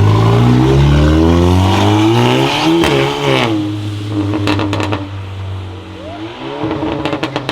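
A performance car's engine accelerating hard, revs climbing for about three seconds before dropping at a gearshift, then running steadier and climbing again. Two quick bursts of sharp crackling from the exhaust come near the middle and near the end.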